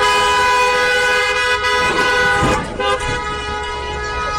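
Car horn sounding continuously, two notes at once, loud and unbroken, easing off a little about three seconds in. Voices shout briefly over it about two seconds in.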